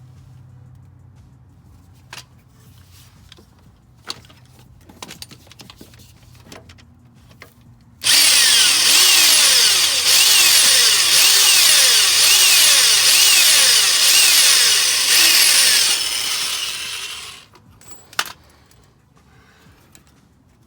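A few faint clicks and knocks of hand tools, then about eight seconds in a power drill runs for roughly nine seconds, boring into a broken exhaust manifold bolt, and winds down, followed by one sharp click.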